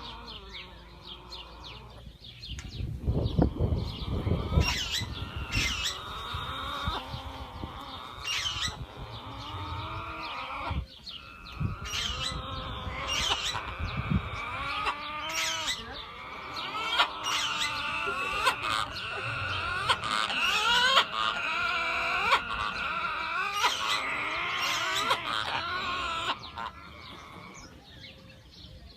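Parrot calling over and over during mating: a long run of short, pitch-bending calls and chatter that eases off near the end.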